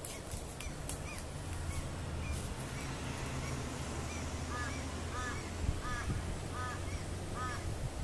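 A bird calling a steady series of short, arched notes, about one every two-thirds of a second, growing louder and fuller about halfway through, over a low steady hum.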